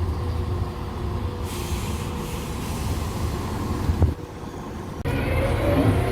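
Steady low rumble and drone of a train running, with a few steady humming tones. The sound changes abruptly about one and a half, four and five seconds in, and there is a brief knock just before the four-second change.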